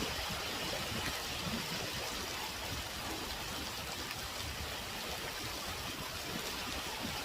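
Heavy typhoon rain falling, a steady, unbroken hiss of water.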